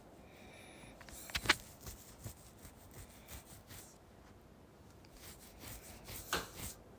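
Faint rustling with a few short, soft clicks or taps, the sharpest about a second and a half in and another near the end.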